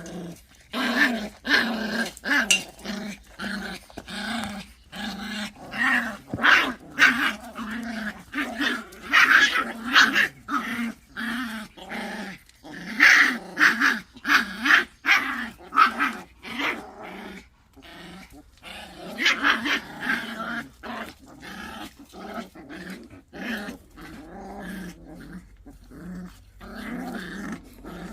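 Pungsan puppies growling at each other in a scuffle over rank, in repeated rising and falling bursts with several louder surges.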